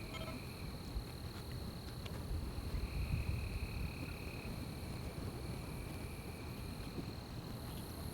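Night insects chirring: one steady, high continuous drone, with a second, lower trill that comes and goes three times for a second or two each, over a low rumble.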